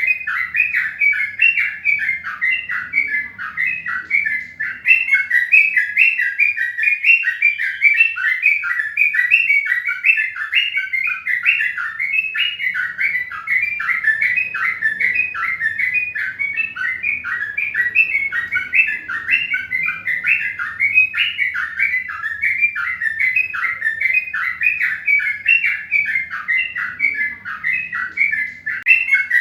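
Birds chirping continuously: a dense, unbroken stream of short, rapid chirps.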